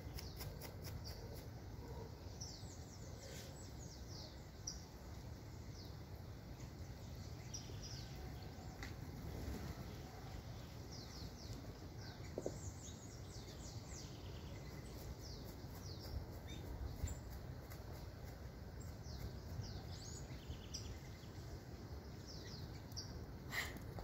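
Small birds chirping in short, falling notes, scattered throughout, over a steady low rumble of outdoor background noise. A sharp click comes near the end.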